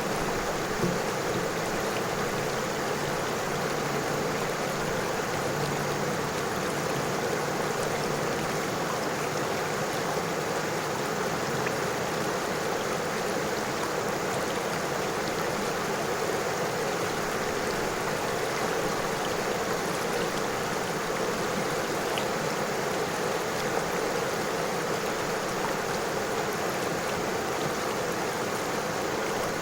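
A small river or stream running steadily over stones, a continuous even rush of flowing water.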